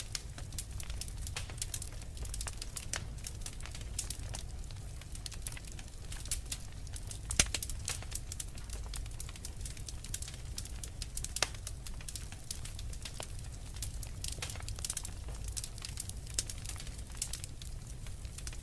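Wood fire in a fireplace crackling, with frequent sharp pops and snaps over a low steady rumble. One louder pop comes about seven seconds in.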